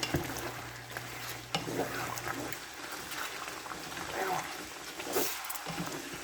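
Whole chicken with onions frying in ghee in a pan, sizzling, with the clicks of a spoon stirring.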